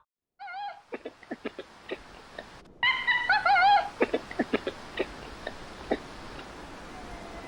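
Animal calls: two short wavering pitched calls, one near the start and one about three seconds in, with a run of short sharp clicks in between and after them.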